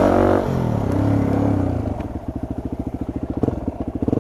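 Dirt bike engine dropping off in revs over the first couple of seconds, then settling into an idle with an even putt of about ten beats a second.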